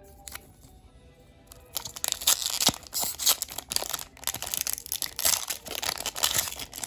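Foil booster pack wrapper being torn open and crinkled, a dense crackling that starts about two seconds in, over quiet background music.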